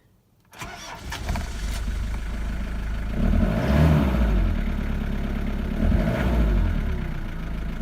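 Nissan 2.7 four-cylinder turbo diesel cold-starting after its glow plugs have heated: it fires about half a second in, catches and settles into running, rising briefly in revs around four seconds and again near six. It runs a bit lumpy, a cold diesel just started.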